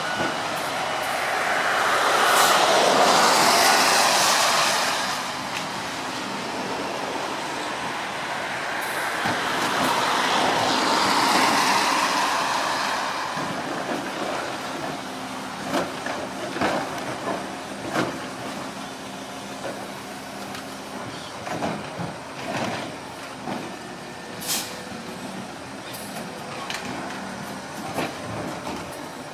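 Garbage truck at work: two long swells of rushing, hissing noise, then a string of irregular clanks and knocks.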